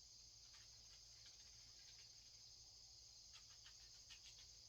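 Near silence with a faint, steady, high-pitched insect chorus, crickets by its sound, and a few faint ticks clustered about three and a half to four and a half seconds in.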